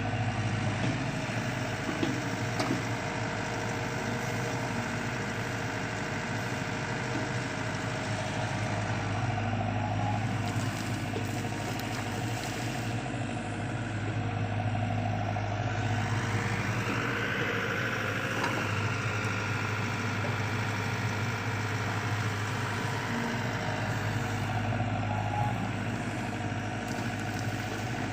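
LiuGong CLG908E mini excavator's diesel engine running steadily with a deep hum. About halfway through, a higher whine comes in and fades out again a few seconds later.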